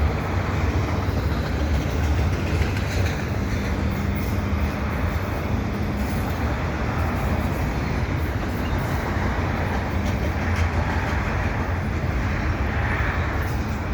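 Double-stack container freight train rolling steadily past below, a continuous rumble of cars on the rails.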